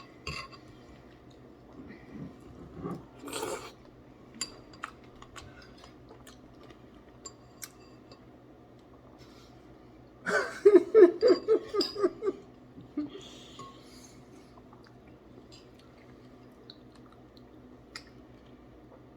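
Metal spoon clinking and scraping against a bowl in scattered light taps while fruit is scooped and eaten. About ten seconds in, a brief, loud, pulsing vocal outburst.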